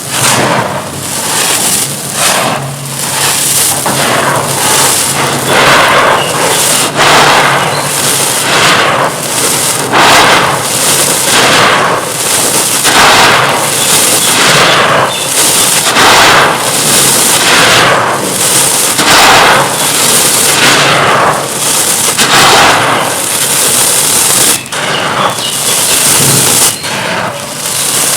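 Dry, dusty stone-like chunks being crushed and crumbled: a loud crackling crunch about once a second.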